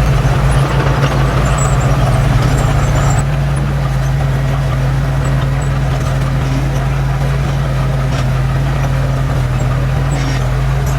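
Diesel engine of heavy earthmoving machinery running steadily with a deep hum. It is a little louder and noisier for the first three seconds, then settles.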